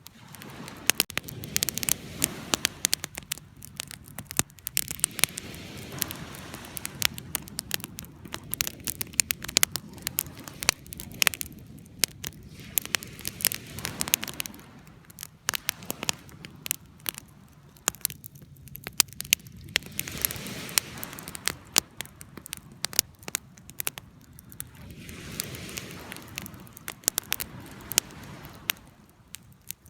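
Wood campfire burning, crackling with many sharp, irregular pops over a steady hiss of flames.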